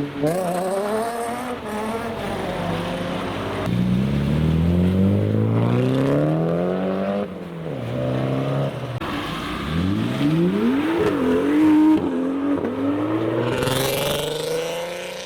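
Modified Japanese cars accelerating hard away one after another, their engines revving up steeply with sudden drops at the gear changes.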